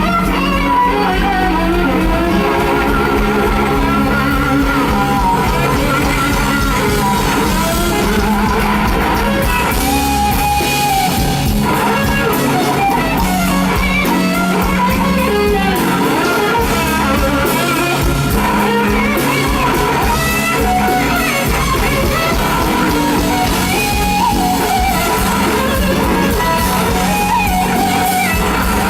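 Live blues band playing an instrumental stretch of a slow blues, an electric guitar carrying the lead line with wavering, sliding notes over the band.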